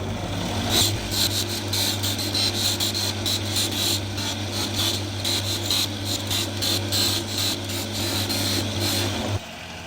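Electric bench buffing machine running with a small brass key pressed against its compound-loaded polishing wheel: a steady motor hum under a rough, scratchy rasp. It stops suddenly a little over nine seconds in.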